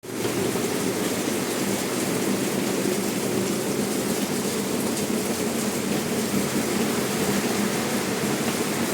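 Heavy rain falling in wind, a steady unbroken rushing noise.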